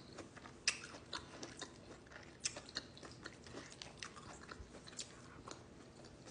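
A person chewing food close to the microphone: a steady run of faint wet mouth clicks and small crunches, with a sharper click a little under a second in and another about two and a half seconds in.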